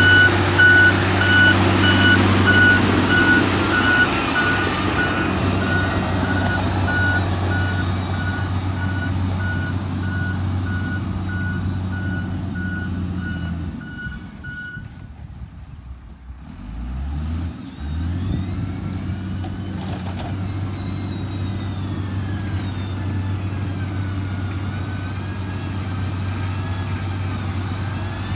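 Heavy construction machine's diesel engine running, with its reversing alarm beeping. The beeping stops about halfway. The engine then dips briefly and picks up again, and a whine rises and falls in pitch over the running engine.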